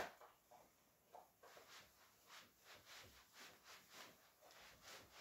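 Near silence: room tone with faint, scattered light taps and one sharper click right at the start.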